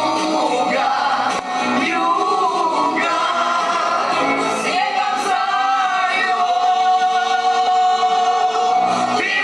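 A man singing a song over backing music, holding one long note for about three seconds near the end.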